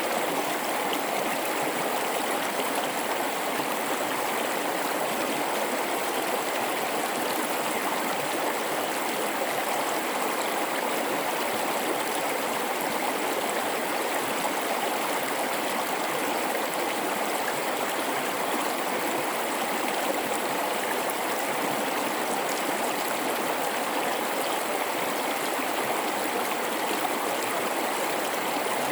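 River water running steadily over rocks in a gorge, a continuous rushing babble with no breaks.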